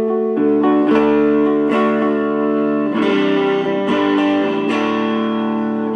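Electric guitar played through a Vox Lil' Night Train tube amp at edge of breakup. Chords are struck and let ring, restruck about every second, showing how the amp cleans up or breaks up with picking strength.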